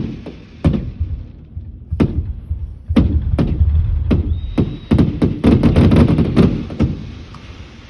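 Aerial fireworks exploding: a series of sharp bangs with low booming, spaced out at first, then coming thick and fast before stopping about seven seconds in.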